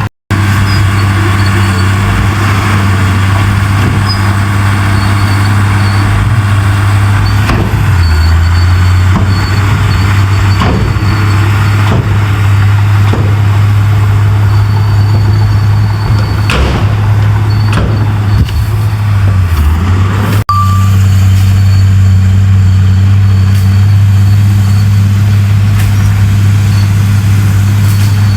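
Heavy diesel engine of earthmoving machinery running under steady load, a loud low drone, with scattered clanks and knocks through the middle. It breaks off briefly about twenty seconds in and resumes at a steadier pitch.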